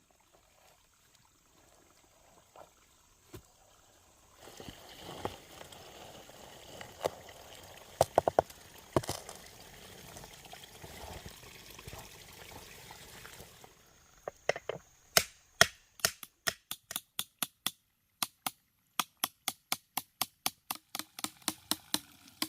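Water pouring and trickling for several seconds, then a fast, regular series of sharp knocks, about four a second.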